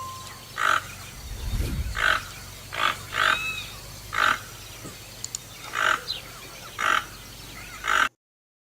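Toucan giving a run of short, hoarse croaking calls, about one a second, eight or so in all. A fainter whistled chirp from another bird comes about three seconds in. The sound cuts off abruptly near the end.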